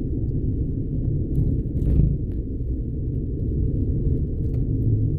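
Steady low rumble of road and engine noise heard inside a moving car, with a brief louder bump about two seconds in.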